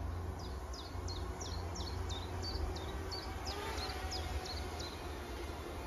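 A small songbird singing a run of about a dozen short, high, down-slurred notes, about three a second, over a steady low rumble.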